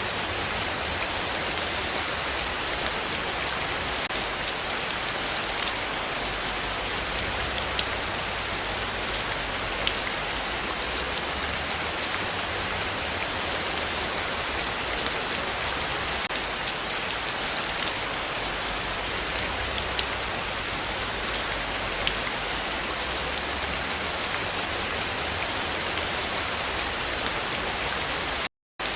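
Heavy rain falling steadily, with many close drops ticking and a low rumble underneath. The sound drops out completely for a split second near the end.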